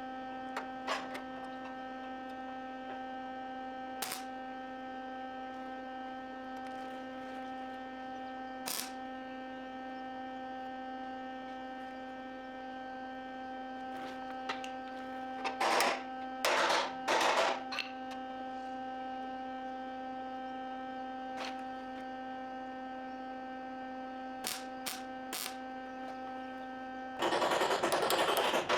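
Steady electrical hum with a few sharp clicks, broken by short loud bursts of harsh noise about two-thirds of the way through and a longer loud burst of harsh noise near the end.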